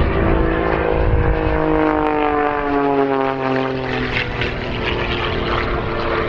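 Propeller-driven aircraft flying past, its engine note dropping in pitch as it goes by.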